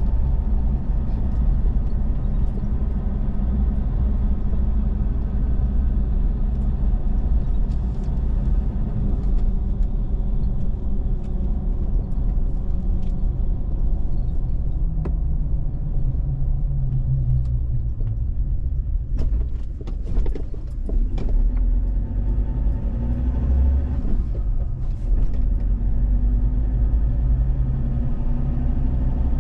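Car engine and road rumble heard from inside the moving car's cabin. The engine note drops about halfway through as the car slows, then rises again later, with a few sharp clicks in between.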